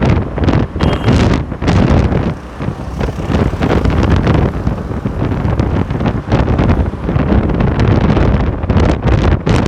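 Wind buffeting the microphone on a moving bike, a loud, gusty rumble that swells and dips irregularly.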